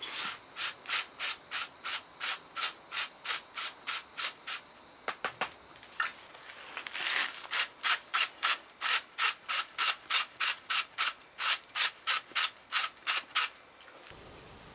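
Rhythmic scraping strokes, about three a second, broken by a pause with a few clicks and a longer swish in the middle, stopping shortly before the end.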